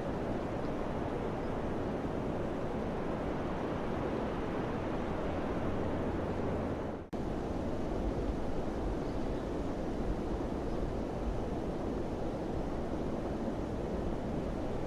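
Wind blowing in a steady, rushing roar, which cuts out for a split second about halfway through and comes straight back.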